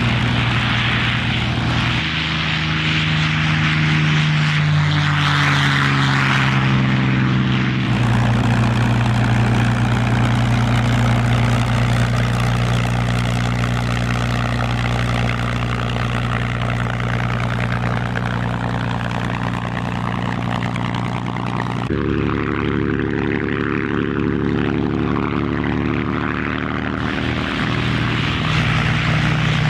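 Propeller aircraft engines droning steadily, the pitch shifting and the sound changing abruptly a few times as if several recordings follow one another.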